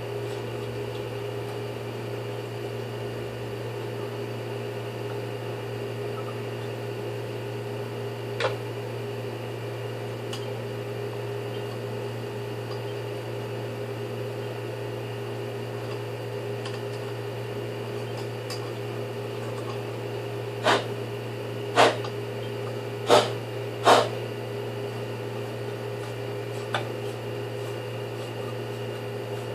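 A steady mechanical hum with fixed tones, broken by sharp knocks and clicks of hard objects being handled: one about a third of the way in, four close together past the middle, and a faint one near the end.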